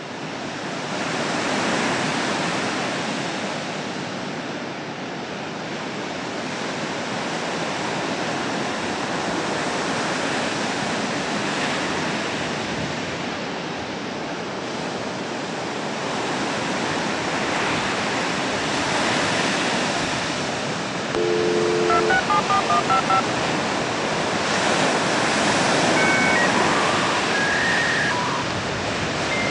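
A steady rushing noise that swells and ebbs slowly, with a quick run of short electronic beeps about two-thirds of the way in and a few more tones near the end.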